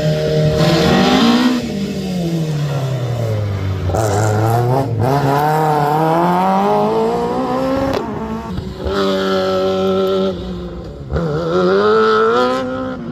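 Rally car engine being driven hard, its pitch climbing and falling repeatedly as it revs and slows, with two sharp breaks about eight and eleven seconds in.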